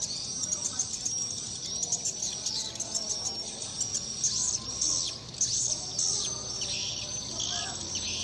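Swiftlet calls: a dense chatter of many overlapping high chirps and twitters that goes on without a break.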